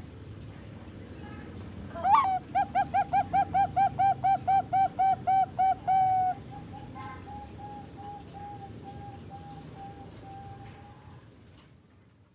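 Young Bangkok-line zebra dove (perkutut), about 3.5 months old, cooing. A rising opening note leads into a rapid, even run of about fifteen short coos, roughly four a second. This is followed by fainter, drawn-out trailing notes.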